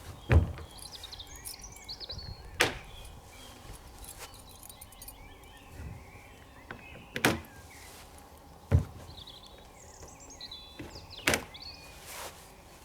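Sharp knocks and clunks from the plastic coop roof and its lynch pins being handled during removal, about six spread out, the loudest about half a second in. Small birds chirp faintly in the background.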